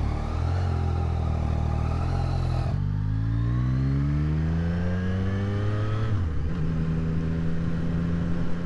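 Motorcycle engine under way, running steadily, then revving up with a rising pitch for about three seconds. The pitch drops suddenly, as in an upshift, and the engine holds steady again.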